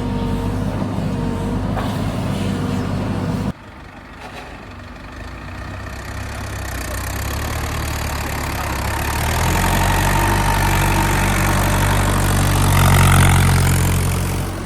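A tractor's diesel engine running with a steady note; about three and a half seconds in the sound drops suddenly to a quieter engine that then builds up, louder and higher-pitched from about ten seconds in, loudest shortly before the end.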